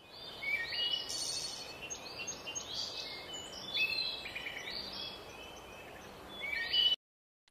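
Birds chirping, a run of short high-pitched calls over a steady background hiss, cutting off abruptly near the end.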